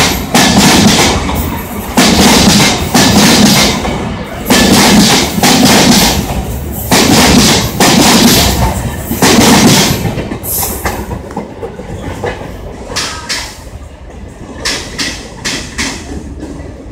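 Tejas Express passenger coaches rolling past close by, their wheels running over the track in loud, regular surges about every two seconds. About ten seconds in, the last coach goes by and the sound fades, leaving lighter clicks as the train draws away.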